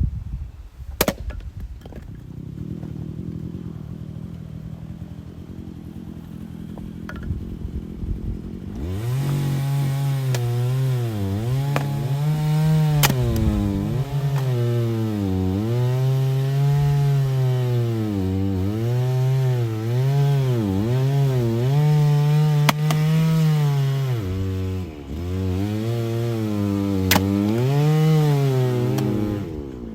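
Chainsaw idling, then opened up about nine seconds in and cutting through firewood, its pitch sagging under load and climbing back again and again. A few sharp knocks sound along the way.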